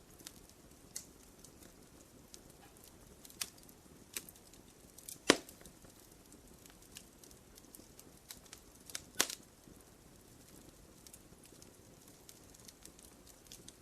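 Wood fire in a fireplace crackling: scattered sharp pops and ticks over a soft low hiss, with two louder pops about five and nine seconds in.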